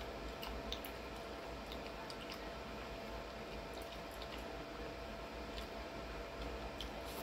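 A person chewing and slurping mouthfuls of fettuccine in tomato sauce, with small wet mouth sounds and scattered light clicks of a fork in the bowl, over a steady low hum.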